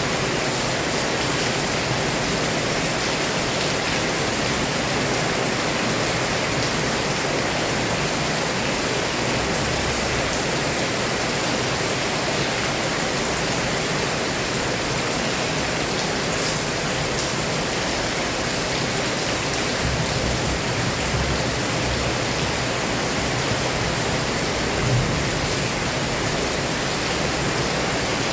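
Heavy downpour: a dense, steady hiss of rain. Low rumbling gusts of wind come and go, strongest about ten and twenty seconds in, and there is a brief thump near the end.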